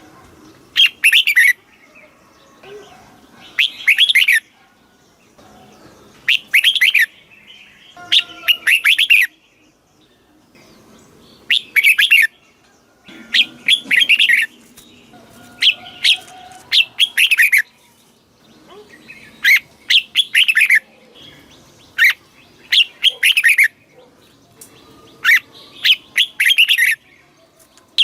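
Red-whiskered bulbul singing: short, loud song phrases about every two seconds, a dozen or so in all, some given twice in quick succession.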